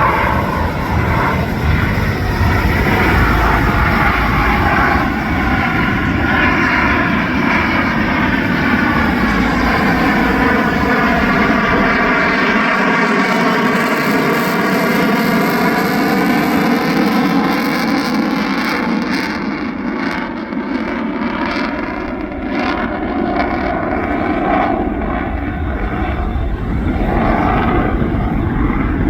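Boeing F/A-18F Super Hornet's twin GE F414 turbofans in a loud pass, the jet noise sweeping in pitch with a phasing sound as the jet goes by, then losing its hiss and sounding duller as it moves away in the last third.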